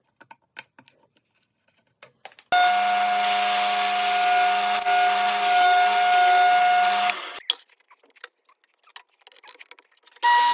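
A woodworking power tool starts abruptly and runs at a steady pitch with a constant whine for about five seconds, then stops; small knocks and clicks of handling wood come before and after it.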